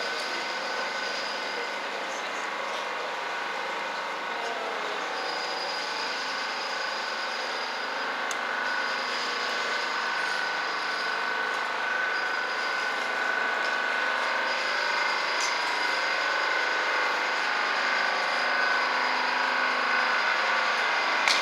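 A steady mechanical whine over a noisy hum, growing slowly louder, like a motor or engine drawing nearer.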